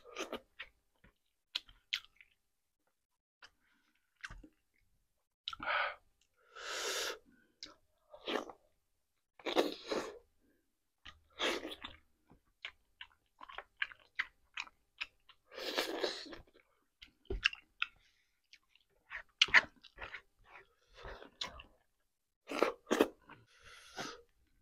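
Close-up chewing of rotisserie chicken: wet clicks and lip smacks with short spurts of crunching, coming unevenly with brief pauses between.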